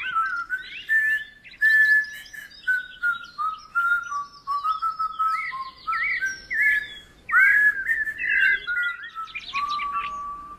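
A songbird singing a long, varied song of quick chirps, whistled notes and trills, phrase after phrase without a break.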